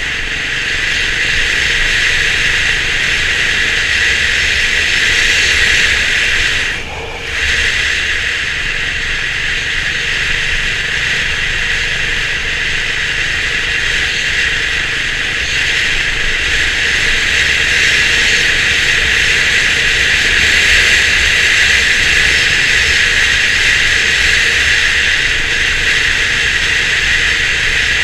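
A steady rush of wind and road noise from a Honda CB350 RS motorcycle on the move, with a low engine rumble underneath. The level dips briefly about seven seconds in.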